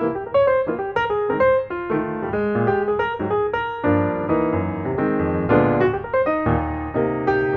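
Background piano music, a steady run of notes with chords beneath, a little fuller after about four seconds in.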